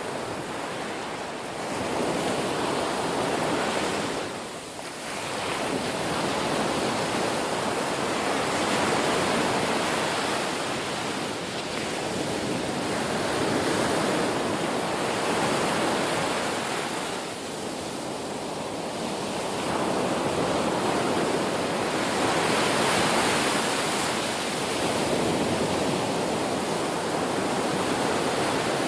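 Ocean waves breaking and washing on a shore, a continuous surf that swells and eases every few seconds, with brief lulls between sets.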